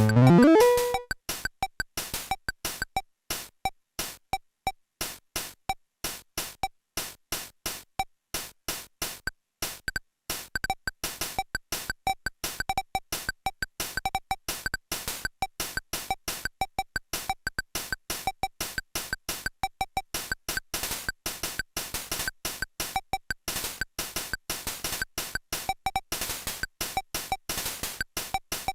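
Casio VL-Tone (VL-1) electronic keyboard: a held synth note ends with a quick rising pitch sweep, then its built-in rhythm box plays a steady beat of short, dry electronic clicks and small beeping blips. After a brief pause about nine seconds in, a busier rhythm pattern starts and gets denser toward the end.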